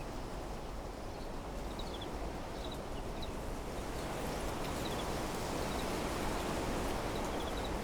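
Wind blowing through trees and desert vegetation, a steady rustling that builds slightly stronger toward the end. Faint, short, high chirps repeat every second or so over it.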